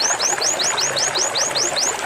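White-eye (pleci) singing its rapid 'zipper' song: a fast run of short rising whistles, about five a second, over a steady hiss.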